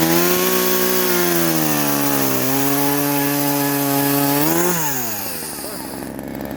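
Poulan Wild Thing two-stroke chainsaw revved to full throttle and cutting through a log, its engine pitch sagging a little under load partway through the cut. Near the end the throttle is released and the engine drops back to idle.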